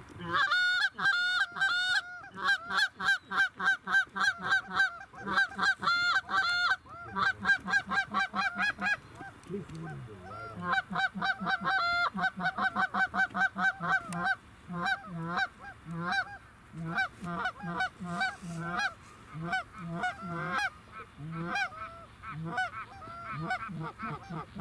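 Goose honking: rapid strings of loud, sharp honks, several a second, pausing briefly about ten seconds in and then going on a little quieter with lower grunting notes among the honks.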